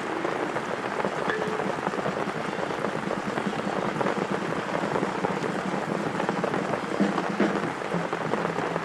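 Heavy rain falling steadily, a dense patter of many drops with no break.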